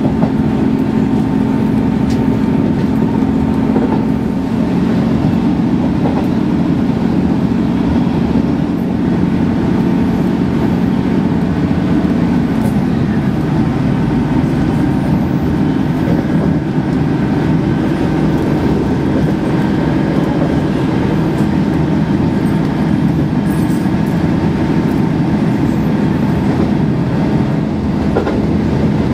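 Passenger train running at speed, heard from inside the carriage: a steady rumble of the wheels on the track under a continuous humming drone, whose pitch shifts about halfway through.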